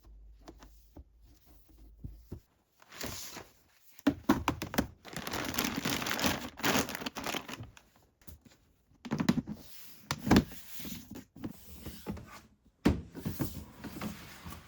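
Hands handling crinkly packaging or paper: rustling, crackling bursts of a second or two at a time, with a few small knocks.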